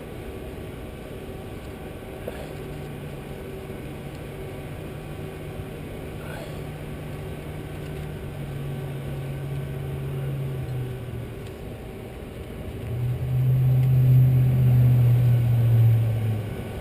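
A low, steady engine hum that fades briefly and then comes back louder for about three seconds near the end.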